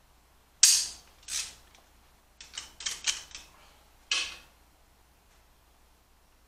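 Torque wrench and socket tightening engine cylinder head bolts on a torque pass: sharp metal clicks, a loud one about half a second in, a quick run of ratchet clicks around two to three seconds, and another loud click near four seconds.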